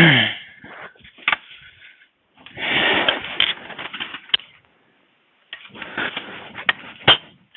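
Hand-tool work on metal: stretches of scraping and rattling with several sharp metallic clicks, as a part is worked loose on a mini excavator's track undercarriage.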